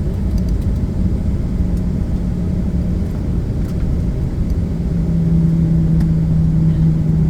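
Cabin noise inside a Boeing 737 airliner: a steady low engine and airframe rumble, with an engine hum that grows stronger about five seconds in.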